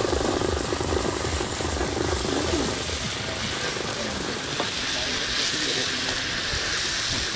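Water lily stems frying in spiced oil in a black iron wok, a steady sizzle, with the scrape and knock of a wooden stirring stick as they are tossed.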